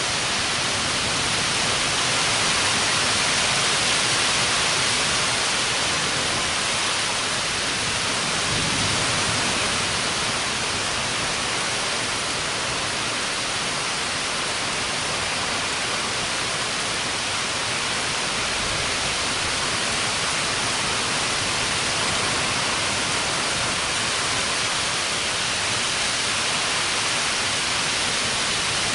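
Heavy rain falling steadily in a thunderstorm, a dense unbroken hiss.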